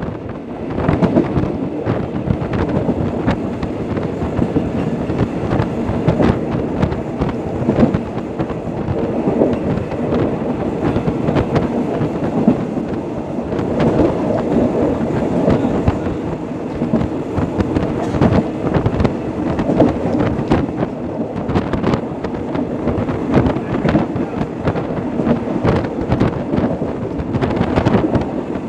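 Passenger train running at speed, heard from an open carriage window: a steady rumble and clatter of wheels on the rails, with many sharp clicks and wind buffeting the microphone.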